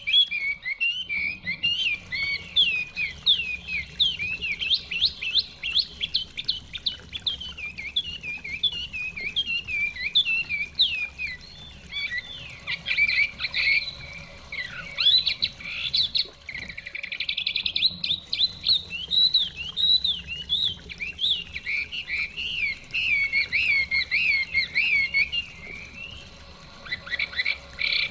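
Chinese hwamei singing a long, rich song of rapid, varied whistled phrases made of quick up-and-down notes. The song eases off briefly twice.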